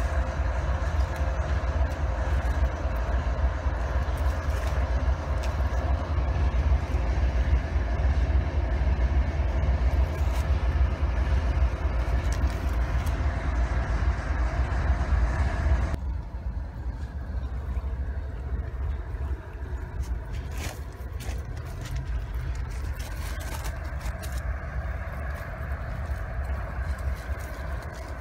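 Freight train running past with a steady low rumble and a few held tones. About sixteen seconds in, the sound cuts suddenly to a quieter background with a few light clicks.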